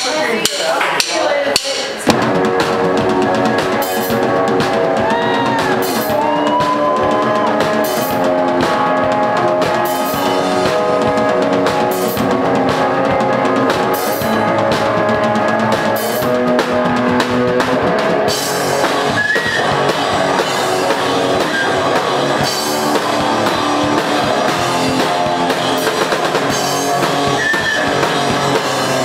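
Rock band playing live: drum kit and electric guitar, the full song kicking in about two seconds in after a few drum hits.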